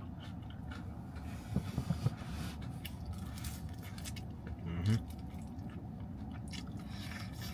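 A person biting into and chewing fried chicken, with a cluster of sharper bite clicks about a second and a half in.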